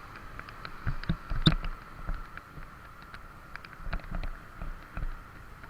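Motorcycle ride heard through a mounted camera: scattered knocks and rattles from bumps in the road, over a faint steady hum and low rumble.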